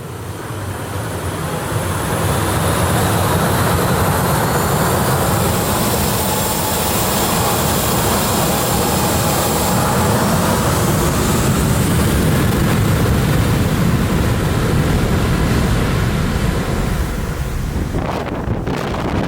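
Airliner engines running loud, with a whine that shifts in pitch over the roar. The noise builds over the first two seconds and cuts off suddenly near the end.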